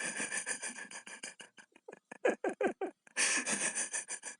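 An animal's rapid series of short cries, each dropping in pitch, about five a second, with two stretches of rasping hiss.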